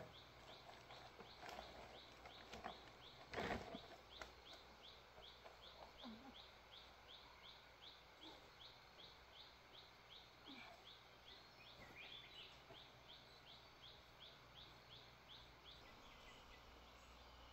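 Faint, rhythmic high chirping, about three short chirps a second, which breaks off briefly and then resumes. There is a single knock about three and a half seconds in.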